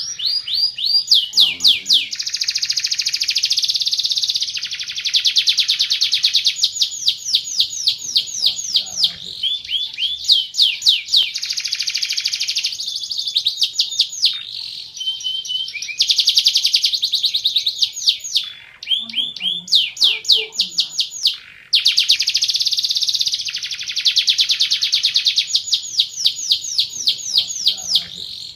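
Domestic canary singing a loud, long song of rapid trills and rolls, phrase after phrase, with a few brief breaks between them.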